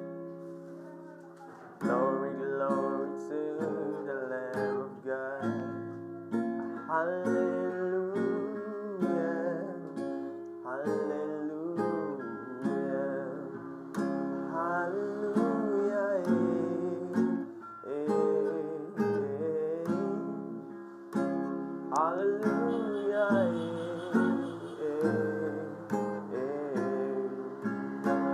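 Acoustic guitar strumming chords under a singer's voice that glides through sustained notes and runs.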